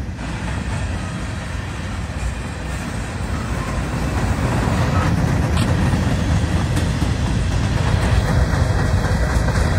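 Freight train cars rolling past: a steady low noise of steel wheels on the rails, getting louder about three seconds in.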